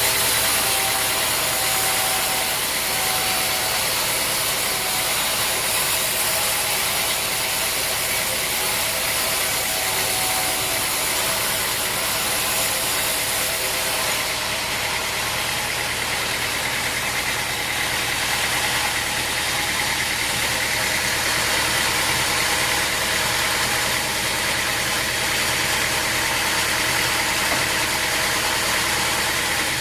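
Sawmill machinery running steadily: a constant motor hum with a hissing, whirring noise over it, the tone shifting a little about halfway through.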